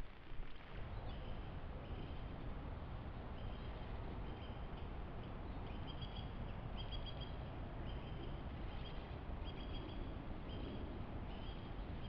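A small songbird calling over and over: a short, high two-pitched note repeated about twice a second, over a steady background hiss.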